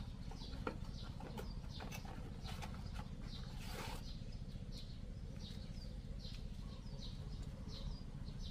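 A bird chirping over and over, short falling chirps about twice a second, with a brief crinkle of paper packaging a little before the middle.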